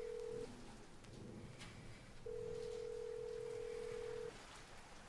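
Telephone ringback tone heard through a phone: a steady single-pitched tone that sounds for about two seconds in the middle, with the tail of an earlier tone just at the start.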